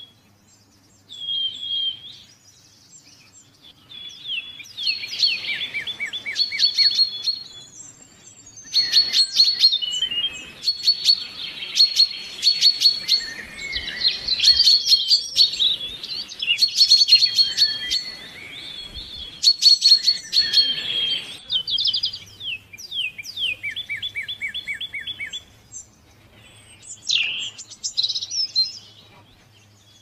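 Several songbirds singing and calling: quick chirps, trills and runs of rapid repeated notes, busiest through the middle.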